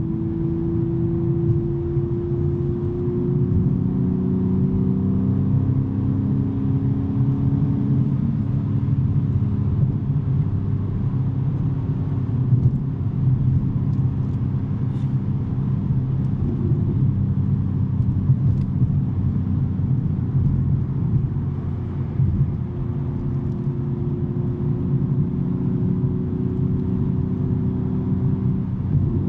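2023 BMW M3 G80's twin-turbo inline-six with a non-resonated J-pipe exhaust droning steadily at freeway cruise, heard from inside the cabin over road and tyre noise. The engine note climbs slightly over the first few seconds and again near the end.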